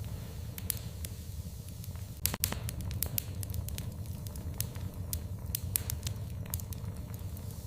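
Wood fire in a fireplace crackling, with irregular sharp pops over a steady low rumble of the flames; a louder cluster of pops about two and a half seconds in.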